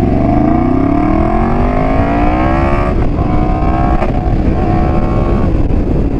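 Yamaha FZ-10's R1-derived inline-four engine, catalytic converter removed and fitted with a new exhaust pipe, pulling hard with its pitch rising steadily for about three seconds, then shifting up at about three seconds and running steadier. Wind noise runs underneath.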